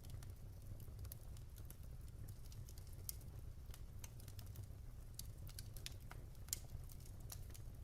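Fire crackling in a fireplace: quiet, irregular snaps and pops over a low rumble, with one louder pop about six and a half seconds in.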